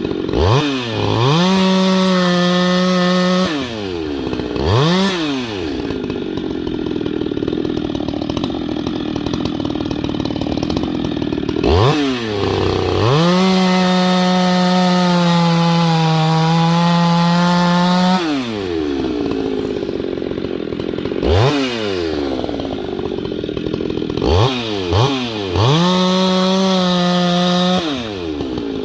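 Ported Husqvarna 390XP two-stroke chainsaw, running on a swapped-in carburetor under test. It is revved up to full throttle several times, holding a high steady pitch for a few seconds each time before dropping back. There are short throttle blips between the revs, and a stretch of rougher, lower running in the middle.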